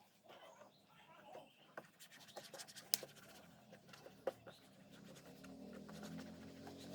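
Faint scratchy rubbing of a hand working shampoo over a scooter's faded plastic panel, with scattered small clicks and two sharper ones near the middle. A low hum builds in near the end.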